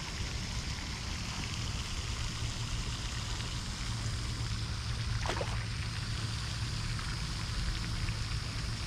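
Steady outdoor rushing noise with a low hum underneath, and one short sharp chirp-like sound about five seconds in.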